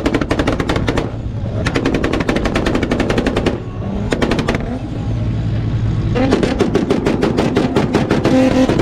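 Turbocharged MK4 Toyota Supra engines on two-step launch control, held at the rev limiter, firing rapid strings of loud exhaust bangs at roughly ten a second. The bangs come in bursts of a second or two with short breaks, then run without a break from about six seconds in.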